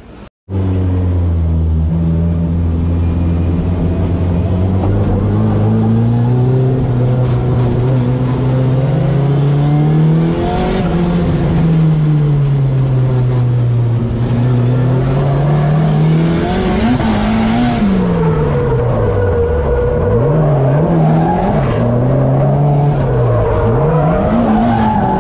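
Car engine at high revs, cutting in suddenly about half a second in, its pitch climbing and falling again and again as the throttle is worked, with rushes of hiss in between.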